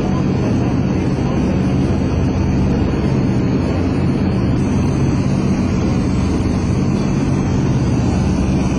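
Steady drone of the EC-121K Super Constellation's four Wright R-3350 radial piston engines and propellers.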